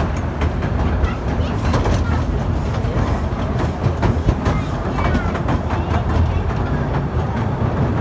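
Efteling theme-park train running along the track: a steady low rumble with wheels clicking and clacking over the rails.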